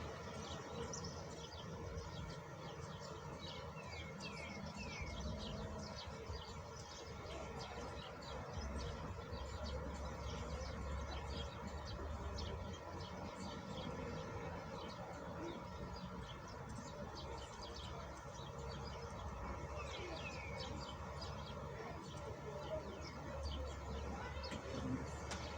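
Small birds chirping over the steady patter of falling rain, with a few quick falling chirps standing out twice.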